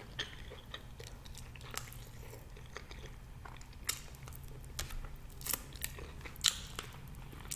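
Close-miked chewing of food: soft, wet mouth clicks and smacks, scattered, with several more in the second half.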